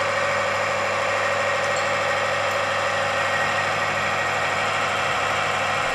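Timken friction-and-wear tester running steadily under heavy load, its ring rotating against the test piece in oil with a nano tungsten disulfide additive: an even machine hum with a constant tone. It is running smoothly under low friction, with no sign of seizure.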